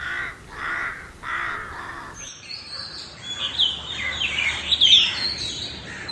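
Rooks cawing, three calls in a row. About two seconds in, the recording cuts to small songbirds singing, with quick high chirps and sweeping notes.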